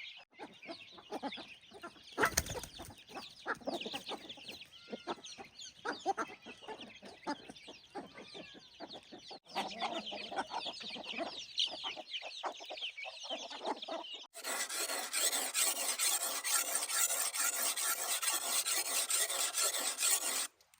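Chickens clucking for the first half or so, then, after a sudden cut, a steady loud rasping scrape that stops abruptly near the end.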